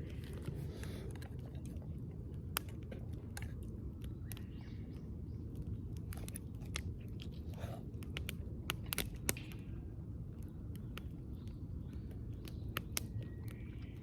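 A person eating close to the microphone: bites and chewing with scattered short crunches and clicks, over a steady low background rumble.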